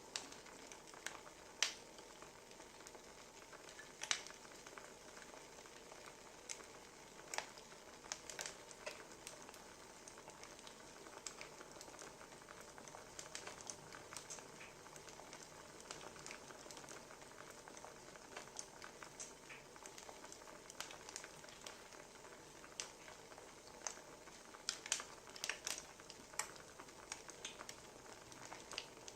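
Wood fire crackling: a steady soft hiss with scattered sharp pops and snaps, coming thicker near the end.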